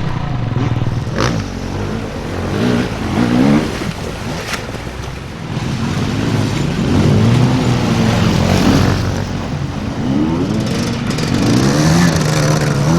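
Dirt bike engine revved hard again and again, its pitch rising and falling with each burst of throttle, with a couple of short knocks in the first half.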